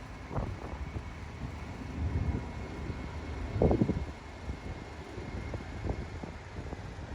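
Wind buffeting the microphone, a low gusty rumble that surges strongest a little past halfway through.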